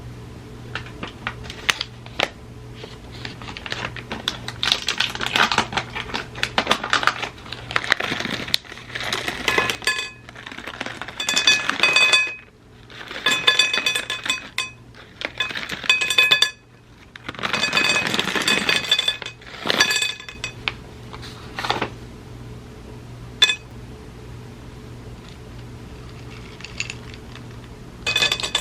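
Dishes and cutlery clinking and clattering as tableware is handled, with several longer noisy stretches and ringing taps on glass or ceramic partway through.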